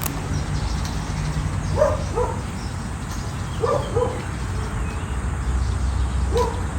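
A dog barking: two quick pairs of short barks, then a single bark near the end, over a steady low background rumble.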